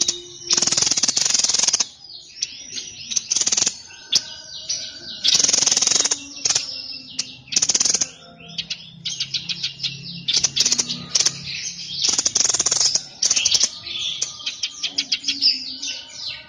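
A caged songbird of the kind Indonesian bird keepers call the 'sniper' sings a fast, varied song of high chirps and trills. Several loud, harsh, chattering bursts about a second long break into it.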